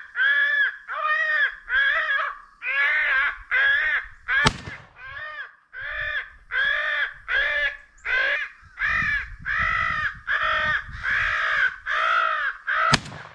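Crow cawing, loud and evenly repeated about twice a second without a break. Two shotgun shots ring out over the calling, one about four and a half seconds in and one near the end.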